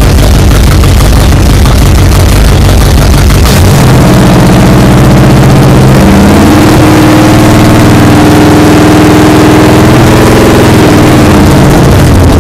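1936 Ford rat rod's engine running loud on its first start-up: idling low, then revved up about three and a half seconds in, held at higher revs for a few seconds, and let back down toward idle near the end.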